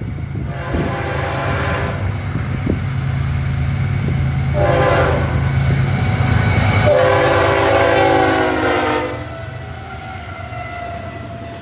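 Locomotive horn sounding three blasts, long, short, then longer, over a steady low engine rumble.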